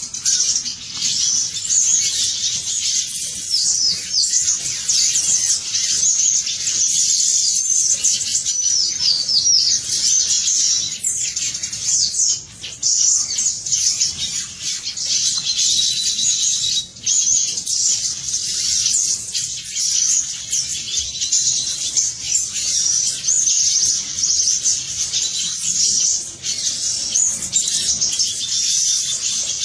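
Many small birds chirping at once, a dense, unbroken chatter of quick high-pitched notes with no pauses.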